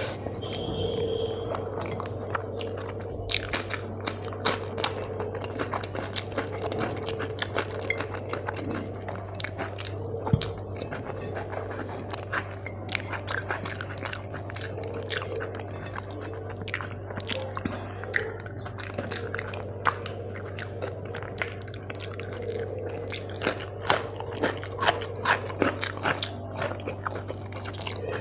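Close-miked eating by hand: chewing and finger-licking of rice and curry, with many small wet mouth clicks and smacks at irregular intervals. A steady low hum runs underneath.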